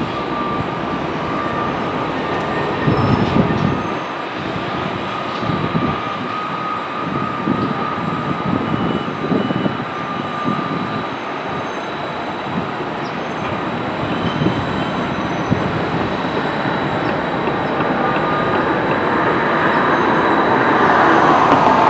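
Train cars rolling along the track, a steady rumbling rattle with a thin, steady wheel-squeal tone through the first half, growing louder near the end.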